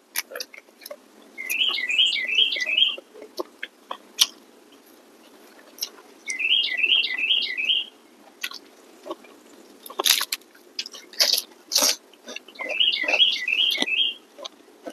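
A songbird sings a short phrase of about five quick chirping notes three times, roughly every five seconds. Between the phrases there are close-up eating sounds: chewing with sharp clicks, and a few louder crunches about ten to twelve seconds in.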